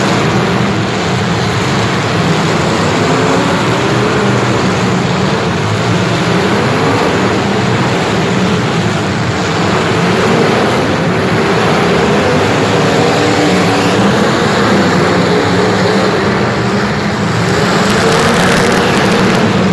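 Motor engines running steadily and loudly, their pitch drifting up and down.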